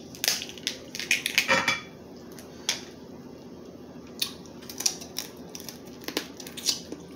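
Crab leg shells being cracked and snapped open by hand, an irregular run of sharp cracks and clicks, thickest in the first couple of seconds and sparser after.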